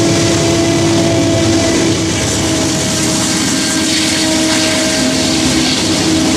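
Union Pacific diesel locomotive pushing at the rear of a loaded coal train as it passes close and pulls away, its engine drone steady over the rumble of the coal cars rolling on the rails; the drone drops slightly in pitch about five seconds in.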